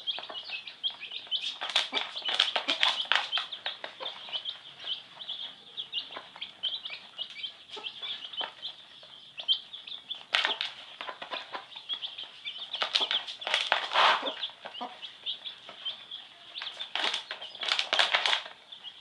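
A group of chicks peeping continuously in high, rapid cheeps, with clusters of short scratchy, rustling noises every few seconds.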